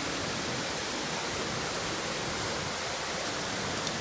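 Waterfall rushing with a steady, even roar of falling water, with one faint click near the end.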